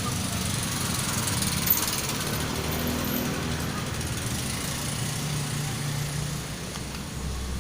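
An engine running at a steady speed, with a single sharp click about a second and a half in.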